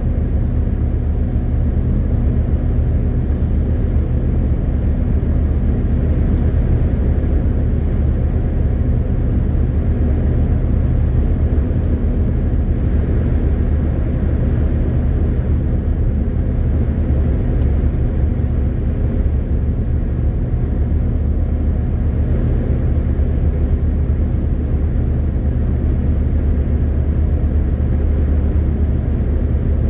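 MAN TGX 18.520 truck's inline-six diesel engine running steadily under way, a constant low drone with road noise, unchanging throughout.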